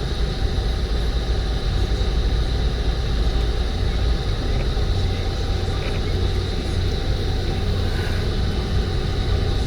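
Steady low rumble of a car on the move, with road and engine noise heard inside the cabin.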